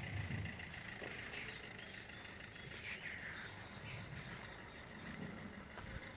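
A bird repeating a short, high, rising whistle about every second and a half, over a steady low rumble.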